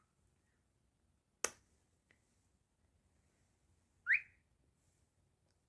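A sharp click, then about two and a half seconds later a single short, rising whistled chirp from a cockatiel.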